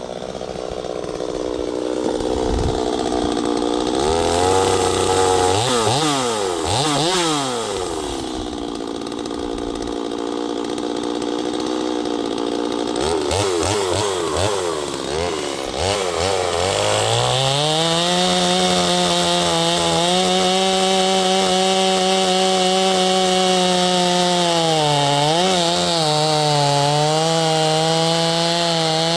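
Neotec NS846 45.4cc two-stroke chainsaw, a Stihl MS 250 clone, revved up and down a couple of times. About halfway through it is held at high speed cutting cherry wood, dipping slightly under load near the end.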